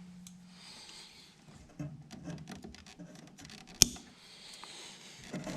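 Small clicks, rubbing and scraping of handling, with one sharp click a little before the four-second mark. A low steady hum cuts off within the first second.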